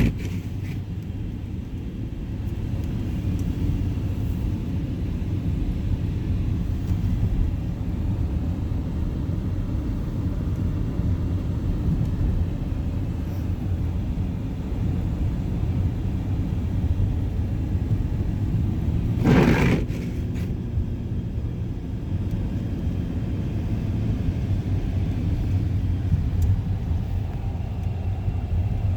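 Steady low rumble of an all-wheel-drive car driving, heard from inside the cabin, with a short louder burst of noise about two-thirds of the way through.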